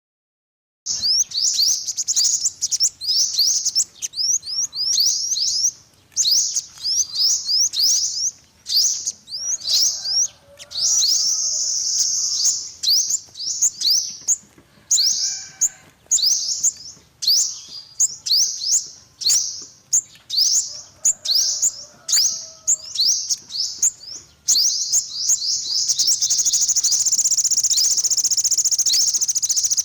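Olive-backed (yellow-bellied) sunbird singing: quick series of high, sharp, upslurred chirps broken by short pauses. A continuous trill comes about ten seconds in, and a longer one near the end.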